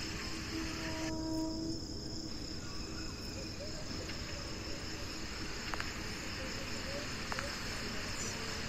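Steady rain falling on leaves, pots and pavement, a constant even hiss.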